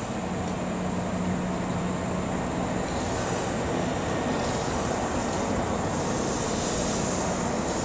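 Kintetsu electric train pulling into a platform and coming to a stop. A steady hum fades out about three seconds in, leaving a rushing noise with patches of high hiss in the second half.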